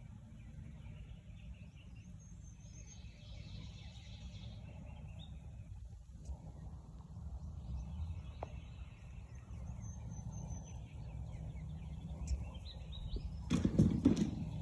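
Outdoor ambience with a steady low rumble of wind and handling noise, and small birds chirping on and off. A few sharp clicks and rustles sound close by near the end.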